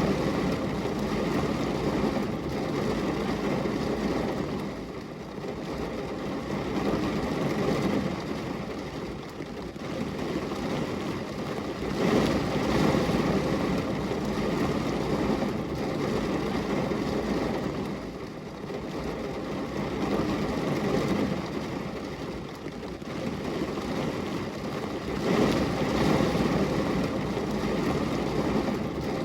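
Steady rain noise, swelling and easing every six or seven seconds, with its weight in the low-mid range.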